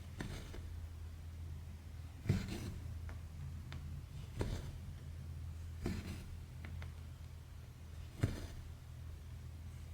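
Cross stitching by hand: a needle clicks through the fabric and the embroidery floss is drawn through with a short swish, about once every two seconds, five times, over a steady low hum.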